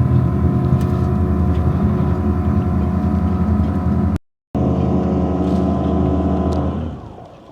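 Boat engine running steadily at a constant speed, with a brief dropout in the sound a little past halfway, then dying down with falling pitch about seven seconds in.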